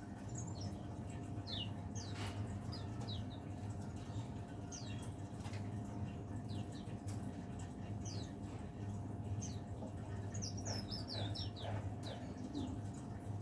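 A cikrak daun (pare-pare) songbird singing: short, high, downward-sliding chirps scattered through, with a quicker run of them about ten and a half seconds in. A steady low hum sits underneath.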